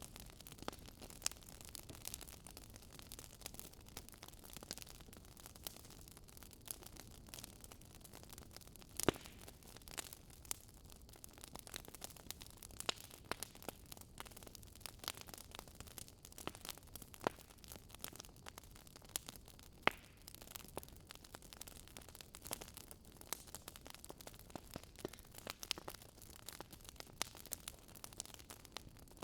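Faint crackling of a wood campfire: irregular sharp pops and snaps of burning wood over a low steady hiss, a few pops louder than the rest.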